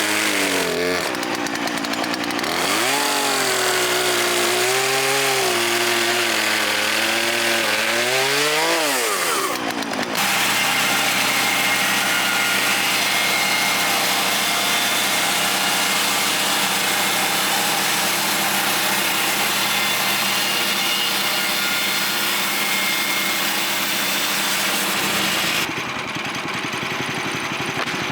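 Woodland Mills HM126 bandsaw sawmill running: for about the first ten seconds the engine's pitch rises and falls, then the blade saws steadily through white pine for about fifteen seconds. Near the end the cut finishes and the sound drops to the engine running more quietly.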